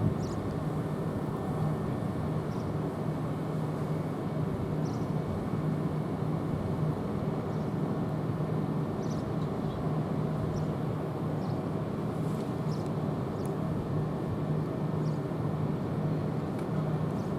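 Southeastern electric multiple unit train pulling slowly into the station, a steady electric hum with no change in level.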